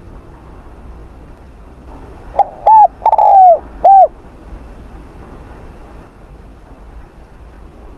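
Spotted dove cooing: one phrase of four arched coo notes about two to four seconds in, the third note longer and trailing downward.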